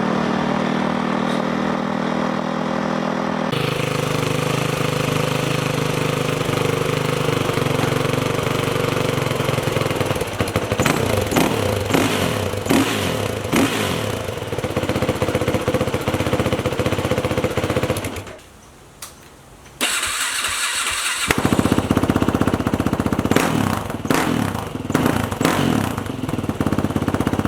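Yamaha WR450F single-cylinder four-stroke dirt bike engine running and revving, in a series of short clips comparing the stock exhaust with an FMF aftermarket exhaust. The sound cuts abruptly between clips, with a brief quiet gap about 18 seconds in.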